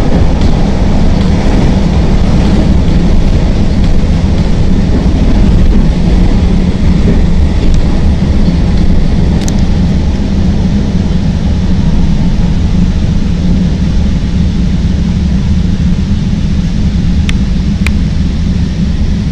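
Chicago Transit Authority elevated rapid-transit train running on the tracks, heard from inside the car: a loud, steady rumble and rattle, with a few sharp clicks, one about halfway and two close together near the end.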